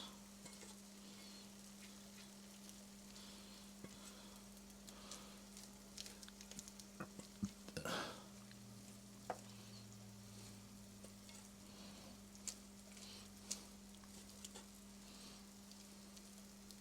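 Faint clicks and scrapes of a spoon spreading sauce over hot baked chicken in a pan, with a faint sizzle and a steady low hum underneath; one brief louder scrape about eight seconds in.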